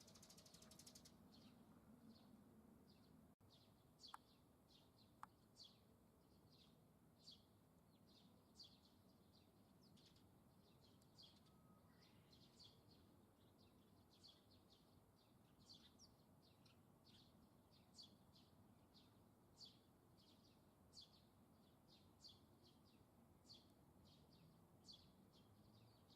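Faint bird chirps, a short high falling note repeated about once a second, over a low background hiss.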